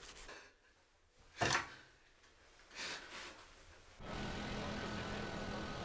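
Dishes being scrubbed with rubber gloves: a faint rubbing, a short sharp sound about a second and a half in, and a softer one near three seconds. About four seconds in it cuts abruptly to a steady background of town traffic with a low hum.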